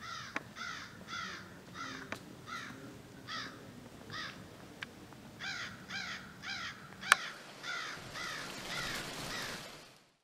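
Birds calling: short harsh calls repeated about once or twice a second, with a few sharp clicks, the loudest about seven seconds in. The sound fades out just before the end.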